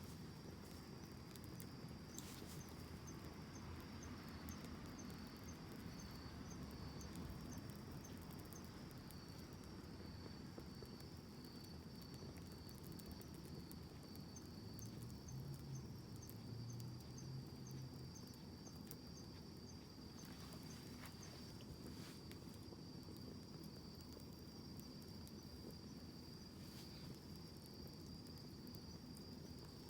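Campfire burning softly with a few sharp crackling pops, about four across the stretch, under a steady high chirring of crickets.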